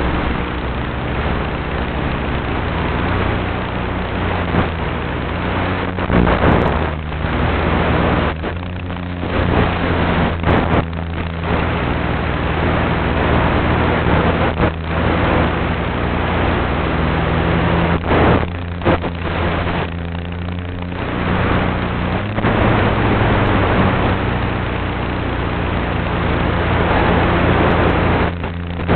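RC airplane motor and propeller running steadily, heard from on board over heavy wind rush, the pitch shifting with throttle changes, with a few brief drops in level along the way.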